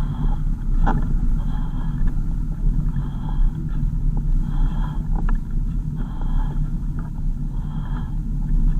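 Car on the move: a steady low engine and road rumble, with a short high beep that repeats about every one and a half seconds.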